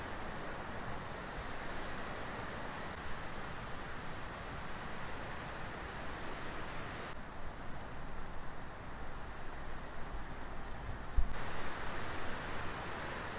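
Strong wind blowing steadily, with gusts rumbling against the microphone for a few seconds past the middle.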